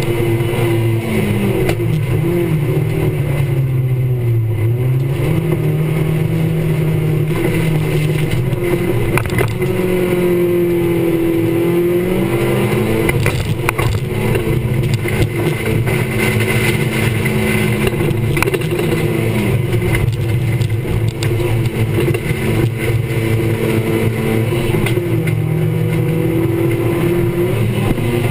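Race car's engine heard from inside the caged cabin, running hard on a gravel track, its pitch dropping and climbing again and again as the driver accelerates, lifts and changes gear. Short knocks from the car are heard now and then.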